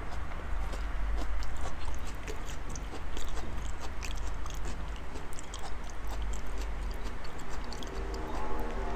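A man chewing a big mouthful of raw salmon, with irregular wet mouth clicks and smacks.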